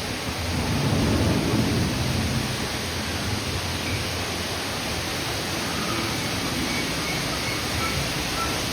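Steady rushing-water hiss, like a waterfall, with a low rumble swelling about a second in and a few faint high chirps later on.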